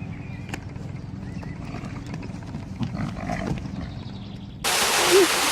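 A low, rough animal rumble, like a growl, for about four and a half seconds, then a sudden cut to a louder clip with a steady hiss.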